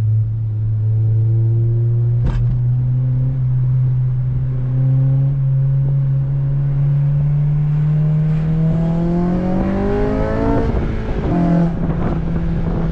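8th-gen Honda Civic Si's 2.0-litre four-cylinder engine and exhaust under way, the engine note climbing slowly as the car gathers speed. Near the end the note breaks off briefly and then settles into a steady, higher drone; a single sharp click comes about two seconds in.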